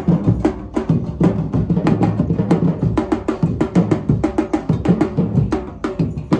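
Live music driven by drums and percussion, with quick, evenly spaced hits over lower pitched instruments.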